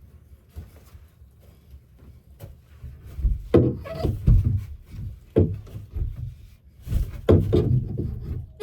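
Wooden roost board being handled and worked into place: irregular knocks and scraping of wood on wood, sparse at first and coming thick from about three seconds in.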